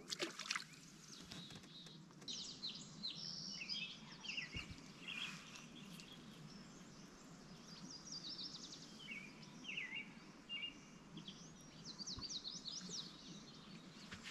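Small birds chirping in quick runs of short high notes, over faint steady background noise.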